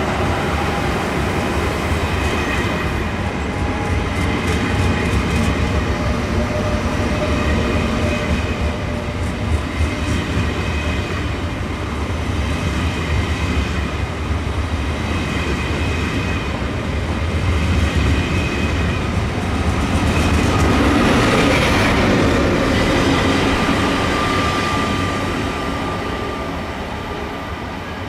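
ÖBB Railjet train pulling out of the station: a steady low rumble of the cars rolling, with thin whining tones and faint wheel clicks over rail joints. It swells about three-quarters of the way through, then fades as it draws away.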